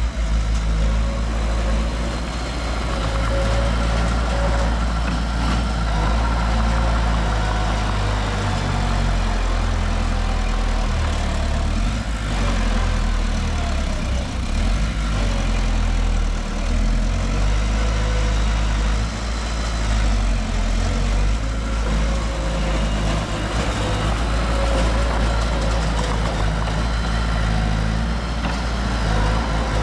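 Diesel engine of heavy earthmoving machinery running steadily, a deep rumble that varies only slightly in level.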